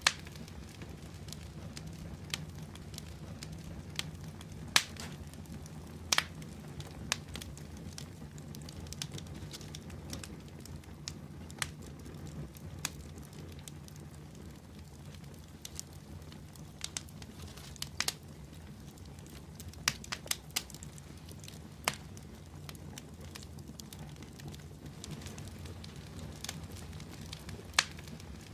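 Fire crackling in a fireplace: irregular sharp pops and snaps, a few dozen over the stretch, over a steady low rumble.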